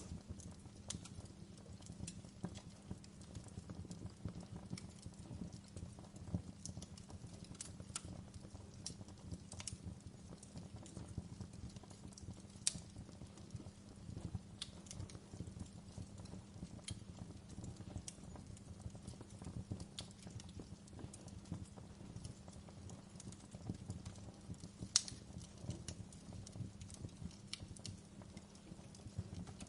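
Wood fire in a fireplace crackling: scattered sharp pops and snaps over a low steady rumble of the flames. Two louder snaps come about halfway through and a few seconds before the end.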